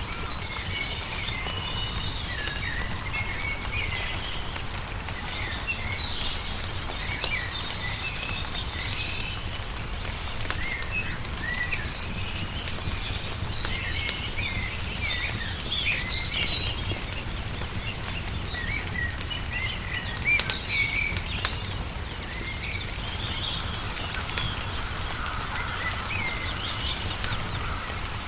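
Ambience of many small birds chirping and twittering, over a wood fire crackling with scattered sharp pops, and a steady low rumble underneath.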